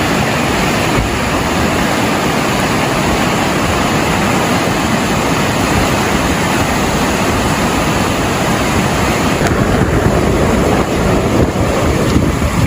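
Loud, steady rushing noise of a flash-flood storm: churning water and wind buffeting the microphone.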